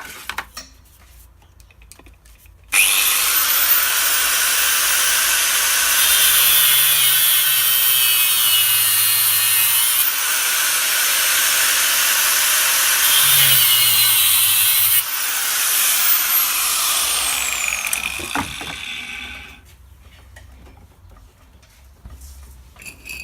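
A power tool with an abrasive cutting disc grinding through a steel bearing race from a rear differential. It starts suddenly, runs hard and steady, then is let off and winds down with a falling whine near the end.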